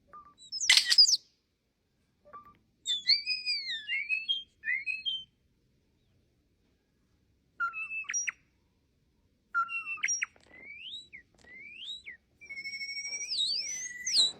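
A starling singing a varied run of whistled phrases: sliding notes that rise and fall, a loud harsh rasp about a second in, and short pauses between phrases. Near the end it holds two whistles at once that slide past each other in opposite directions.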